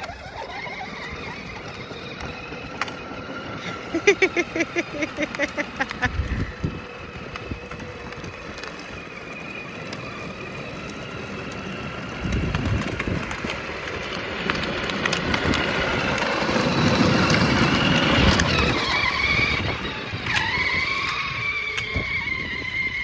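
Child's small motorbike running as it is ridden, its motor sound building to its loudest about three-quarters of the way through and then easing off as it moves away. A quick run of rapid pulses sounds around four seconds in.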